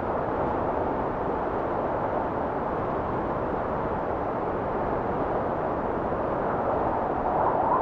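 Blizzard wind blowing in a steady, dense rush. Near the end a gust swells and brings in a faint wavering whistle.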